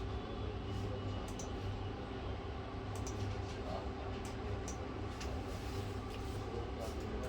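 Steady low hum with a few faint ticks and clicks scattered through it.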